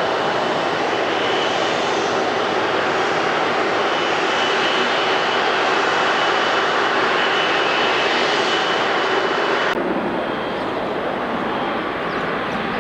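Jet engines of a widebody airliner running loud and steady, a dense rushing sound with a thin high whine on top. About ten seconds in, the sound changes abruptly and becomes quieter and duller.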